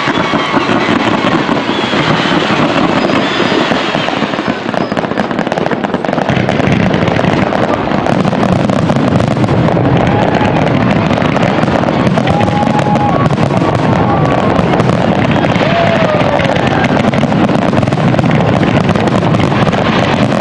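A fireworks show going off in a dense, continuous barrage of rapid crackles and bangs, growing louder and heavier about six seconds in, with a few short whistles.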